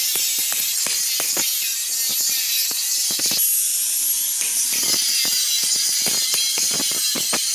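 Stick (arc) welding on iron: the arc crackles and sizzles with dense, irregular pops over a high hiss. It breaks off for about a second a little before the middle, then resumes.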